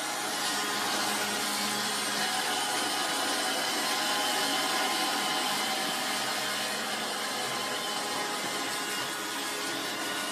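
iRobot Roomba 700-series robot vacuum running on carpet: a steady whir of its motor and brushes.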